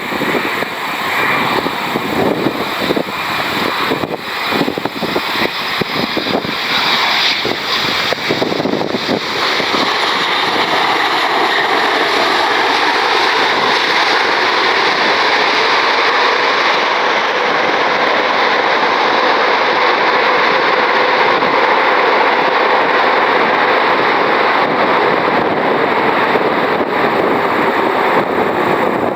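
Boeing 787-10 Dreamliner's twin turbofan engines arriving. Ragged gusty noise at first, then a steady jet rush that builds about ten seconds in and holds.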